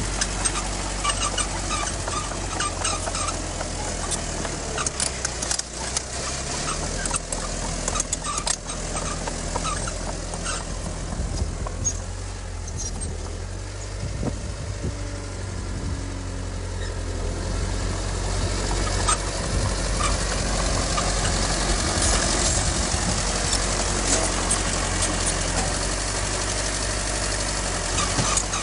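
Heavy diesel earthmoving machinery running, a steady low engine note with scattered clanks and rattles; it grows louder about two-thirds of the way through.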